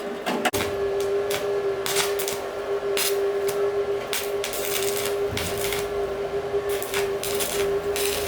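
A small motor running with a steady high hum, with short hissing bursts every second or so.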